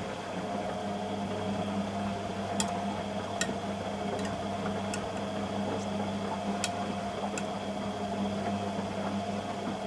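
Beko WTG620M1 washing machine running, a steady motor hum with several sharp clicks in the middle of the stretch.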